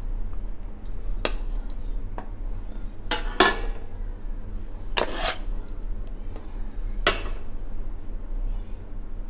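Metal spoon clanking and scraping against a cooking pot, about five strokes a second or two apart, as chicken masala curry is spooned out over a layer of rice for dum biryani.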